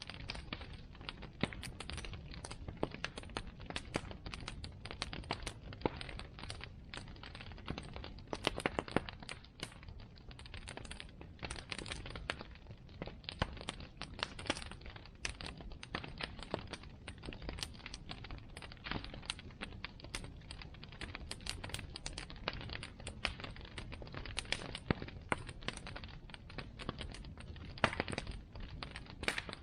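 Wood bonfire burning, crackling with dense irregular snaps and pops over a low steady rumble, with a few louder pops about nine seconds in and again near the end.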